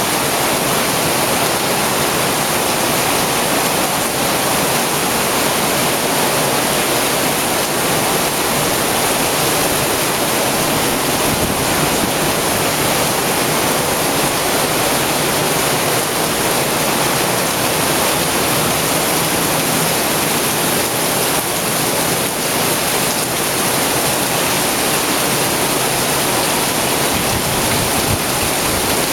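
Steady heavy rain falling, a dense, even hiss that does not let up.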